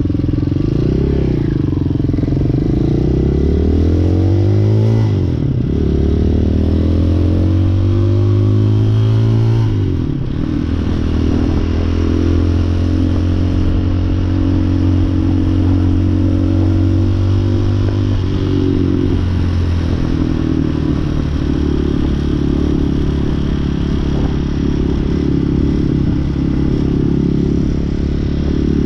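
Hawk 250cc street-legal dirt bike's engine under way: the revs climb, drop sharply at a gear change about five seconds in, climb again, and drop once more about ten seconds in. It then runs at a steady cruising pace with minor throttle changes.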